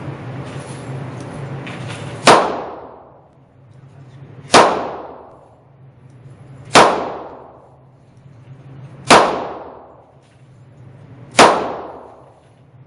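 Five shots from a Ruger SP101 9mm stainless revolver fired single action, evenly spaced about two and a quarter seconds apart. Each report rings out and dies away over about a second in an indoor range.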